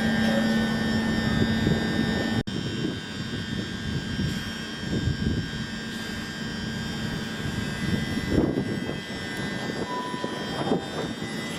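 A train at the station running, with a steady whine and low hum. There is a brief break in the sound about two and a half seconds in, after which it goes on as a rougher rumble.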